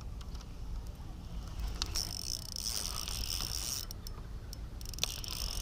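Fishing reel being cranked, its gears whirring in spells with light clicks, as a hooked fish is reeled in.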